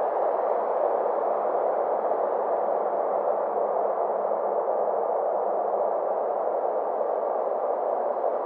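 Steady synthetic space ambience: a band of filtered noise centred in the midrange, its brightness slowly swelling and receding.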